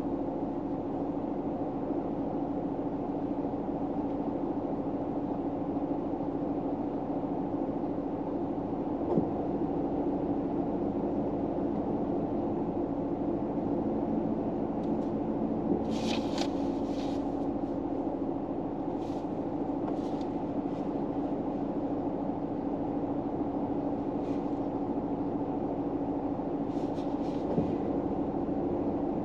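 Steady low drone inside a car's cabin, with a few light clicks and short soft rustles in the second half.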